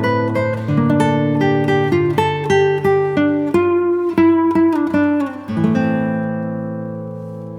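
Acoustic guitar music: a run of picked notes over a steady bass, ending on a chord that is left to ring and fade.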